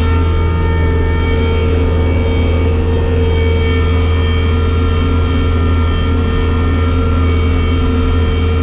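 Bobcat skid steer's diesel engine running steadily, a constant low drone with no change in pitch.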